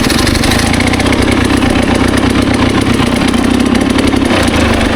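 Dirt bike engine running steadily while being ridden in a low gear, with a fast, even beat of firing pulses.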